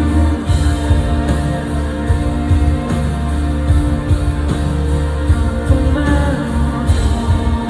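Live pop-rock band music from a concert, with electric guitar, bass and drums under a singer's held vocal line.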